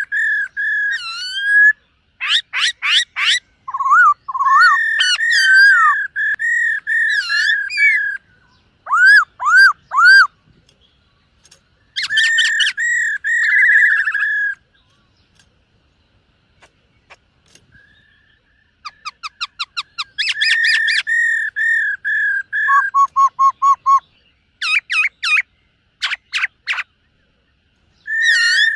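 Black-throated laughingthrush singing: phrases of clear, steady whistles broken by quick runs of short repeated notes and occasional swooping notes, with a pause of a few seconds in the middle and a short one near the end.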